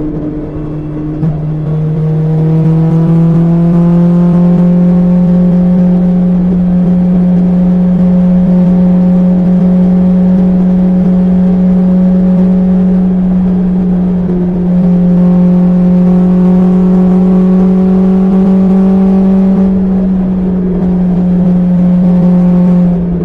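BMW S1000XR's inline-four engine through an Akrapovic exhaust, heard from on the bike while riding: a steady engine note that climbs slowly in pitch, drops briefly about fourteen seconds in, then climbs again and eases off near the end.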